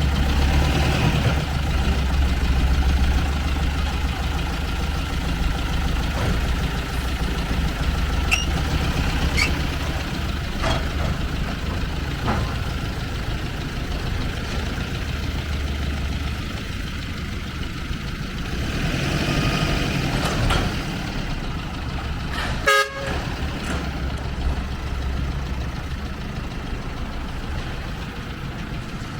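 Truck engine running with a steady low rumble, with occasional knocks over it and one sharp knock about three-quarters of the way through.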